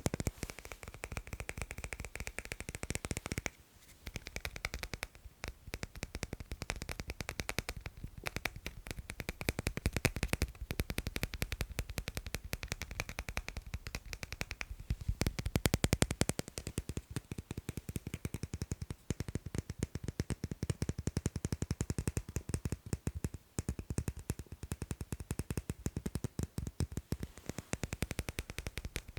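Fast tapping on magnets: a dense, rapid run of sharp clicks, pausing briefly about four seconds in and again a few seconds before the end.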